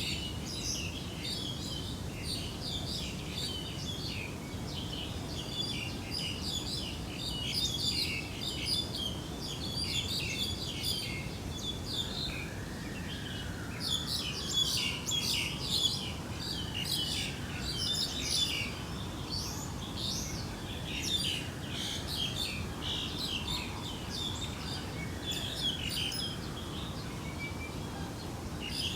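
Many small birds chirping and twittering continuously over a steady low background noise. From around halfway, a slow falling whistled call repeats about every four seconds.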